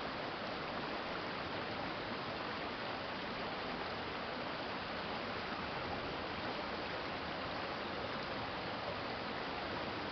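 Steady flow of water in a shallow urban stream, a continuous even rush with no separate splashes.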